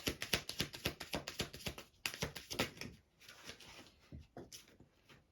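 A deck of oracle cards being shuffled by hand: a quick run of sharp card clicks and slaps that thins out about three seconds in, with a few single taps after.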